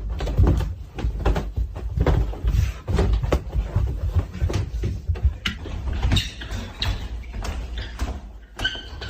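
Scuffling and repeated thumps of a person wrestling with a dog, with heavy rumbling handling noise on the microphone. A short high-pitched squeal comes near the end.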